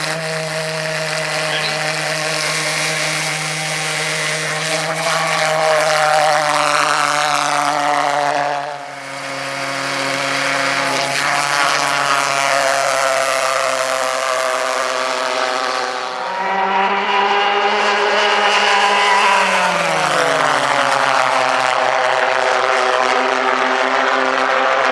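Pulse jet engine of a fast radio-controlled model plane running flat out, a loud steady buzzing drone. Its pitch steps up about two-thirds of the way through and then glides back down as the plane passes.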